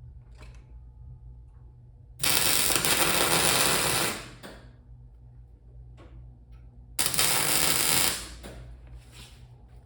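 Welding arc crackling in two bursts, about two seconds and then about one second long, starting abruptly, as a hand-crank piece of unknown metal is welded onto the steel of the sculpture. A steady low hum runs underneath.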